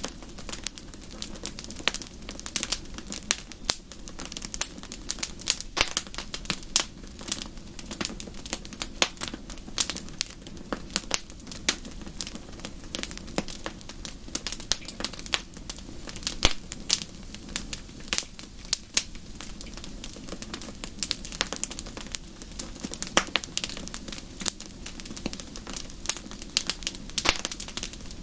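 Wood fire in a fireplace crackling, with dense irregular pops and snaps over a steady low rumble of the flames.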